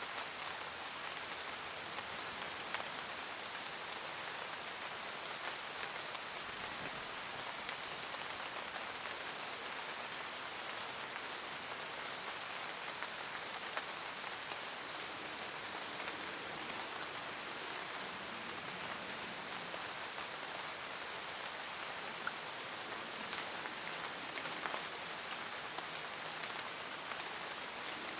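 Steady rain falling in a forest, an even hiss of rain with scattered individual drops ticking on leaves.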